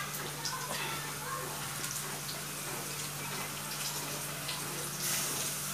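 Onions and meat sizzling in pans on a stove, a steady frying hiss with a few faint ticks of a metal spoon against the pan. The hiss grows louder near the end.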